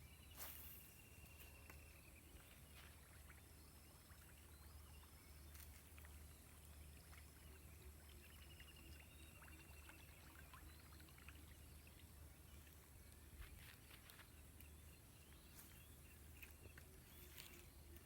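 Near silence: faint outdoor ambience with a steady low hum, scattered faint clicks, and two faint rapid trills, one near the start and one about eight seconds in.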